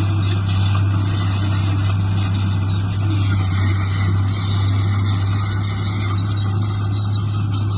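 Diesel engine of heavy earthmoving machinery running steadily, a deep even drone with no change in speed.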